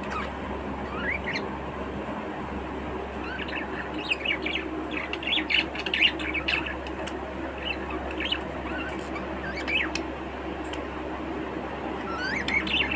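Budgerigars chirping and twittering in short, quick calls, many rising in pitch, busiest through the middle, over a steady low hum.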